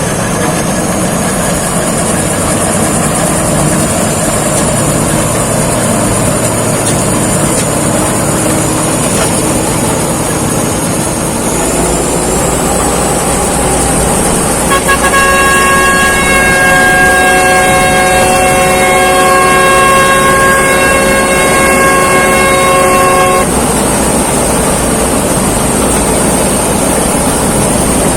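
Combine harvester running steadily at working speed, with a high whine that steps up in pitch partway through. A vehicle horn sounds one long steady blast of about eight seconds in the middle.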